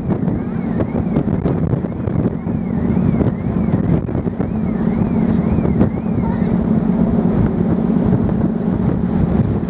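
Wind buffeting the microphone over the steady low hum of a cross-Channel car ferry's engines and the rush of sea water along the hull as the ship is under way.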